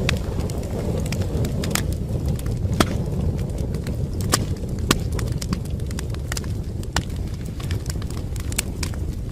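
Wood fire in a fireplace crackling: irregular sharp pops and snaps, a handful louder than the rest, over a steady low rumble of the flames.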